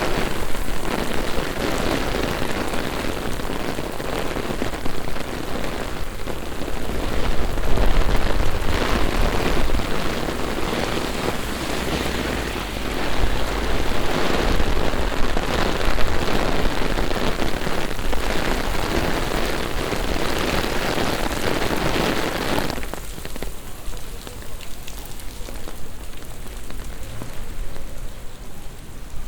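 Heavy rain pouring down onto the pavement and street in a thunderstorm, a dense steady hiss. Near the end the sound abruptly becomes much softer.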